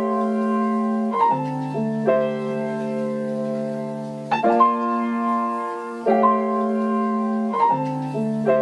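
Instrumental break of a slow pop ballad: keyboard chords held for a second or two each, with no singing.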